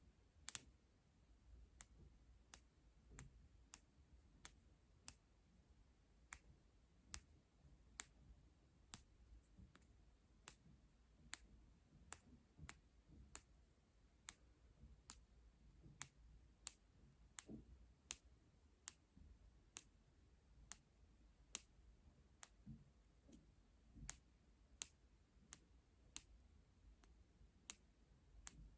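Quiet, sharp clicks in a steady, unhurried series, about one and a half a second, made close to a microphone.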